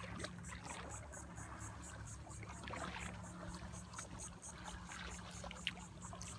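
Faint water trickling and dripping around a kayak, with small scattered clicks and splashes. A steady high-pitched chirping pulse, about five a second, runs behind it.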